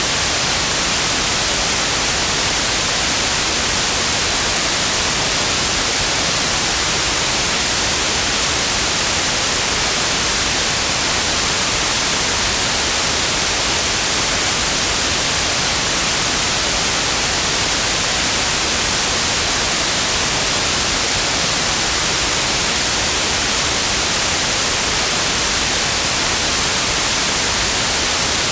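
Synthetic white noise: a steady, even hiss, loudest in the high frequencies, with no change or events.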